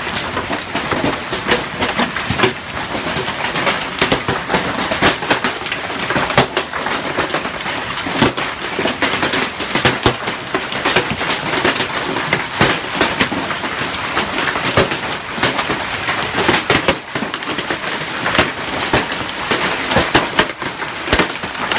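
Heavy hailstorm: a dense, continuous clatter of hailstones striking, with many sharper individual hits standing out. Very loud throughout.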